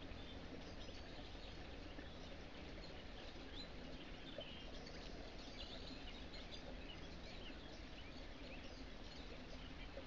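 Faint small birds chirping, many short high calls scattered throughout, over a steady low hiss and hum.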